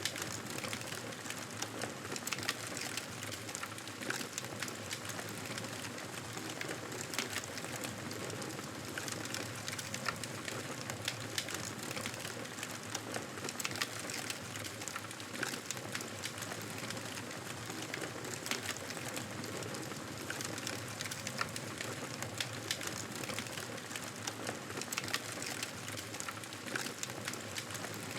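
Wood fire crackling: a steady hiss scattered with frequent sharp pops and snaps.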